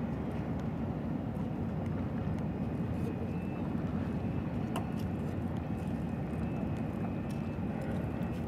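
Steady low engine rumble, with a faint thin high whine joining about three seconds in.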